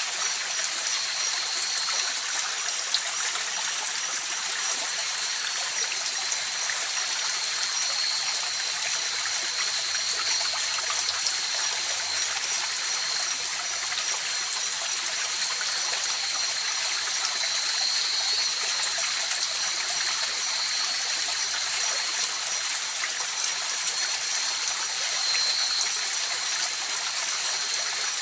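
Mountain river flowing steadily, a continuous rushing and trickling of water over stones, with a faint steady high-pitched tone running through it.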